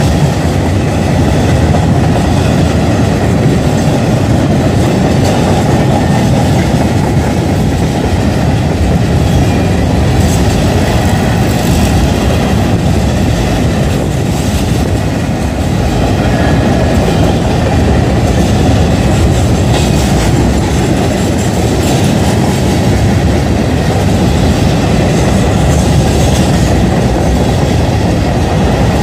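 Kansas City Southern train rolling past, a steady loud rumble of cars and wheels on the rails.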